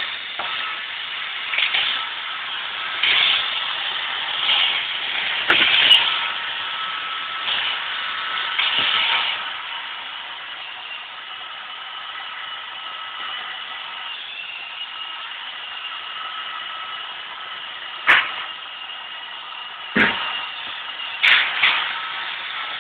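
iRobot Roomba robot vacuum running with a steady motor whine, louder in several swells during the first nine seconds, with sharp knocks about 18 and 20 seconds in.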